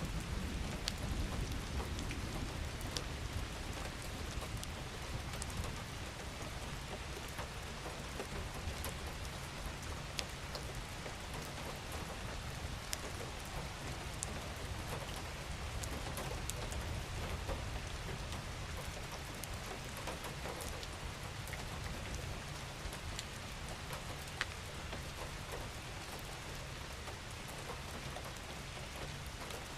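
Steady rain falling on a surface: an even hiss with single drops ticking here and there, over a low rumble that swells near the start and again about halfway through.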